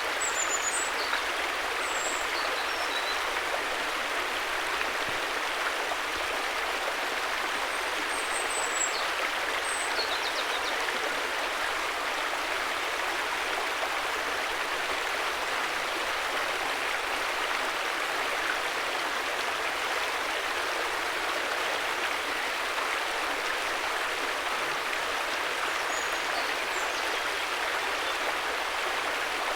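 River water flowing in a steady, even rush, with a few faint short high chirps in the first ten seconds and again near the end.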